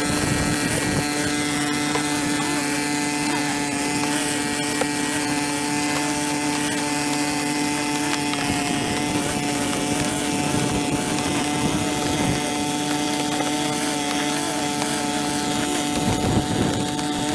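A small engine running at a steady speed, holding one constant droning pitch over a wide noisy hiss.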